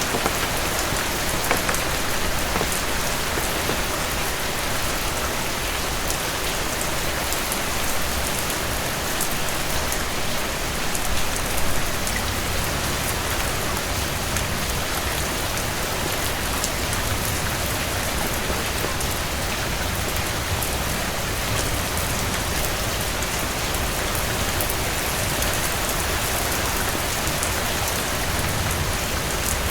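Heavy rain falling steadily, its even hiss dotted with many small sharp ticks of drops striking a surface. The rain swells briefly a little after ten seconds in.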